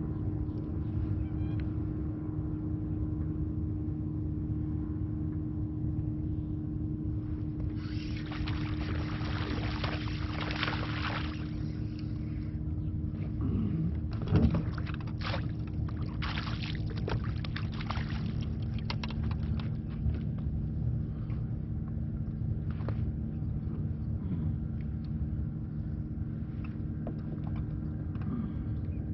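Boat motor running steadily, a low drone with a constant hum, mixed with low rumble. Bursts of hiss come about a third of the way in and again around the middle, with a brief louder knock near the middle.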